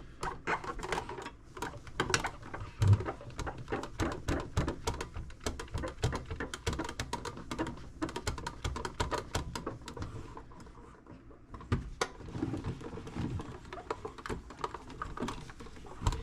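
Microfiber cloth dabbing and wiping cleaning wax over a metal toolbox: a quick, irregular run of light taps and rubbing that eases off briefly about two-thirds of the way through.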